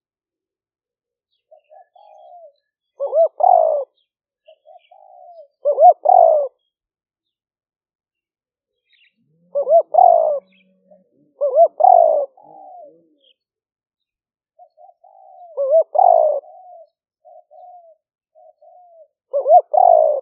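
Spotted dove cooing: six loud rolling coo phrases, each led in by a few softer short notes, repeating every two to four seconds. This is the continuous cooing style that Thai dove keepers call hliw fueang, used as a decoy call to draw in wild doves.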